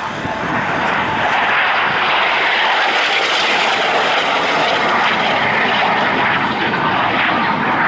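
North American F-86 Sabre jet fighter flying past, the noise of its GE turbojet swelling over the first second or so and then holding steady and loud.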